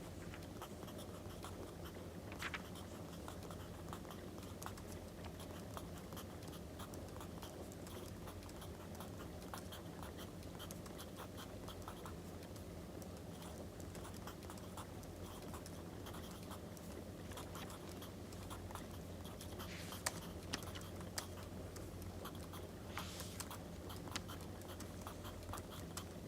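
Wood fire crackling, with a steady low rumble and frequent small pops and snaps, under soft sounds of writing on paper; a few louder snaps come near the end.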